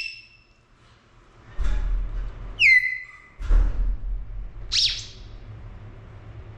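Pet parrot giving two short whistled calls: a sharp whistle that slides down in pitch about two and a half seconds in, then a quick chirp near five seconds. Low rumbling noise underneath in between.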